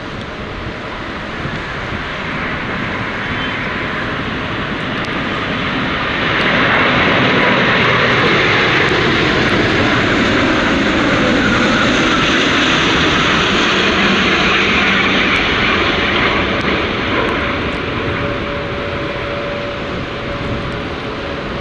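Jet airliner passing close by, a broad engine roar that swells sharply about six seconds in, holds at its loudest for around ten seconds, then slowly fades.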